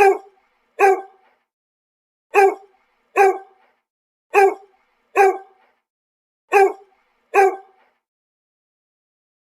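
Dog barking in pairs, "woof-woof", four times over, each pair identical and separated by silence.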